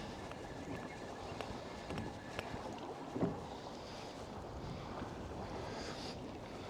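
Small boat drifting in a choppy sea: a steady wash of water and wind noise, with a few light knocks, the loudest about three seconds in.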